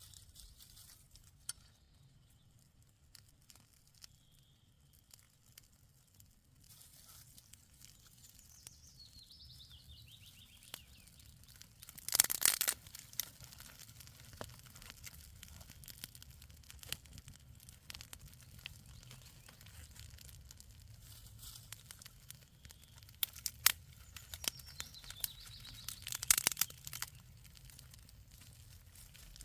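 Scattered crackles and rustles of brittle material being handled, with a loud crunching, tearing burst about twelve seconds in and another cluster near the end. Faint bird chirps come through now and then.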